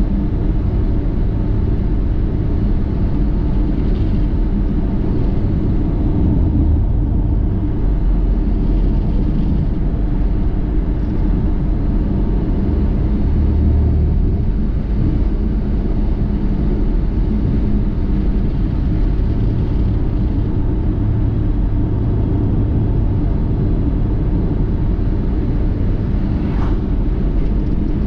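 A car driving: steady low engine and road rumble, with a faint brief tick near the end.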